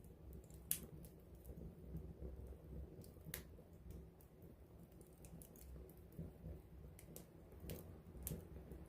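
Wood campfire burning up close: irregular sharp crackles and pops from the burning wood over a faint low rumble of the flames, with a louder pop a little under a second in.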